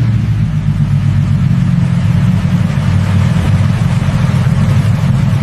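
Proton Saga's engine idling steadily with a low, rapidly pulsing exhaust note.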